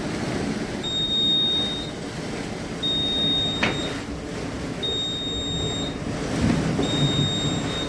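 Electronic alarm beeping on one high tone: one-second beeps, one every two seconds, over a low rumbling background noise. A single sharp click comes about three and a half seconds in.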